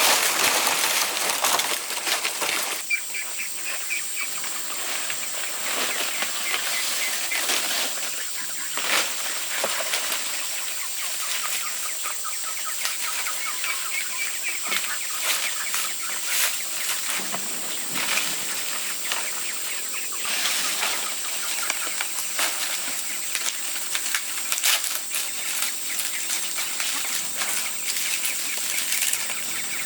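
Poultry calling with rows of quick high peeps, with wings flapping and many short clicks and rustles.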